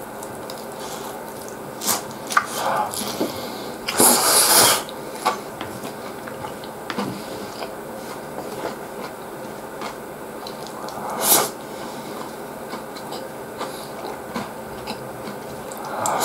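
Close-up eating sounds: chewing a mouthful of deep-fried breaded pork cutlet and rice, with a few short, louder noisy bursts, the loudest about four seconds in and another at about eleven seconds, over a steady background hiss.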